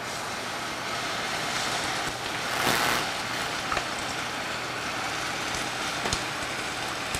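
Red curry paste sizzling as it is scraped into hot oil in a nonstick skillet, swelling louder for a moment about two and a half seconds in.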